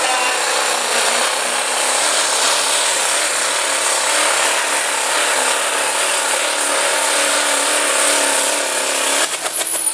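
Chevrolet pulling truck's engine at full throttle, hauling the sled down the track, with a high whine held steady. Near the end a quick run of cracks comes as the throttle comes off, and the high whine falls away.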